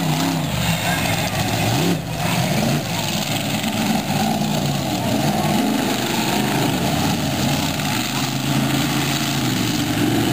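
Monster truck engine running and revving, its pitch rising and falling several times.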